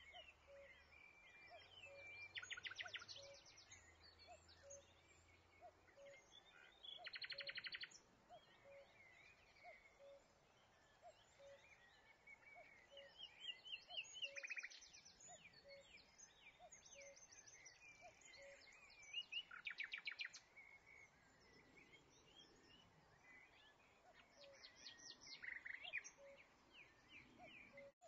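Faint songbird song: a handful of quick trilled phrases with thinner chirps between them, over a soft tick that repeats roughly once a second.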